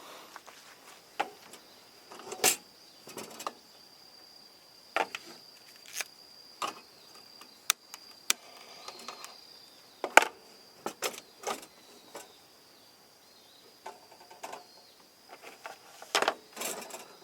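Irregular sharp clicks and snaps, a couple of dozen spread unevenly through, over a steady high-pitched insect tone.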